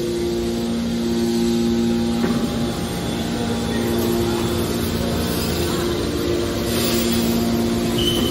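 Steady hum of running machinery over a broad rumble, with two held tones that break off for a moment now and then.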